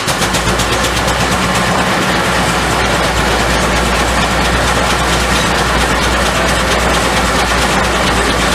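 Steam-powered sawmill machinery running steadily, with a deep hum that sets in right at the start under a fast, even patter of mechanical clicking.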